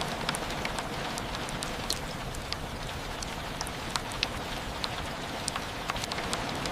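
Steady rain falling, an even hiss with many separate drops ticking sharply and irregularly close by.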